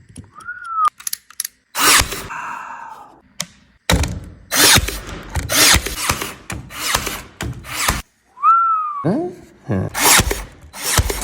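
Power tool running in a series of short bursts during woodworking, with knocks and clatter between them. A whine rises and falls twice, once about half a second in and again near the end.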